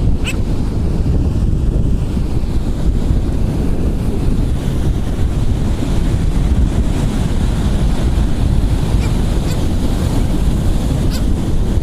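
Wind buffeting the microphone over surf washing on a beach, a steady low rumble.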